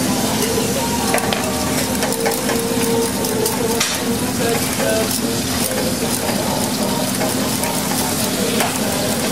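A whisk stirring sugar and pectin into a boiling raspberry–pomegranate marmalade mixture in a pot, with small clicks of the whisk against the pot over the bubbling boil. A steady low hum runs underneath.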